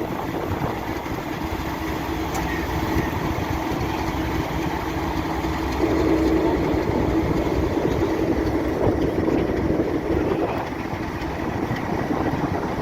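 Diesel locomotive engine running steadily, its note growing stronger about six seconds in.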